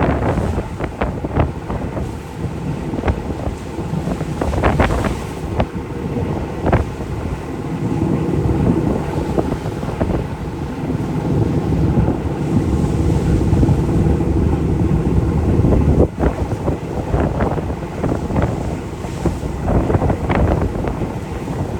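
Wind buffeting the microphone in an uneven, crackling rumble over the wash of the sea.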